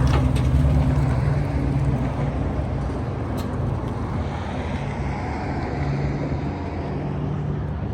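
A motor vehicle running: a low, steady engine drone under a broad rush of noise.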